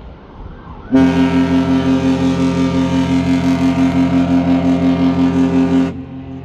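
Cruise ship's horn sounding one long blast as the ship departs, starting about a second in and cutting off near the end, loud and steady with a slight rapid pulsing. Wind and water noise sits under it before and after.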